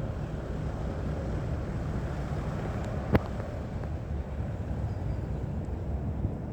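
Remains of a bonfire burning: a steady low rumble with one sharp crack about three seconds in.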